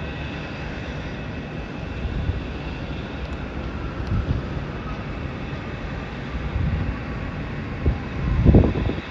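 Distant jet aircraft engines rumbling steadily across the airport, with a faint high engine whine. A few louder low gusts come near the end.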